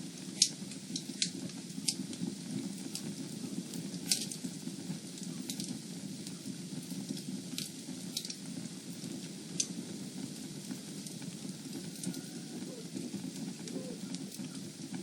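Fireplace fire crackling: irregular sharp pops and snaps over a steady low rumble of burning, with the loudest pops in the first few seconds.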